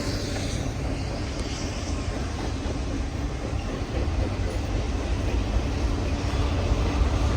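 Freight train rolling past: a steady low rumble of railcars on the track, growing louder over the last few seconds.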